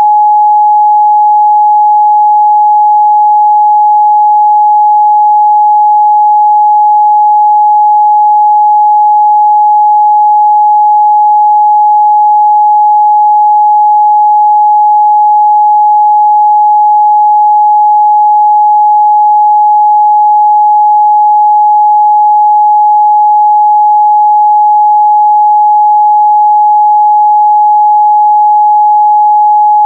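Steady 841 Hz pure sine-wave test tone, one unchanging pitch held at a constant loud level.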